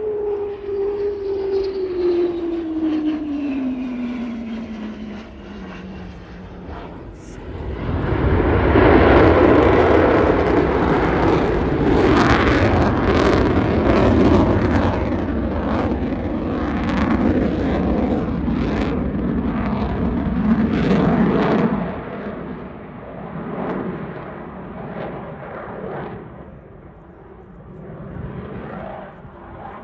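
Boeing F-15QA fighter jet flying past: the engine tone falls steadily in pitch over the first few seconds, then from about eight seconds a loud, crackling jet rumble builds and fades away over the last several seconds.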